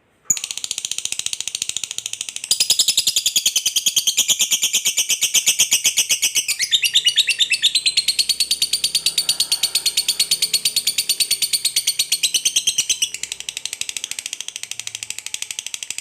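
Lovebird giving a long 'ngekek' chatter: a rapid, even train of shrill high notes that runs on without a break, starting a moment in and changing tone briefly about a third of the way through.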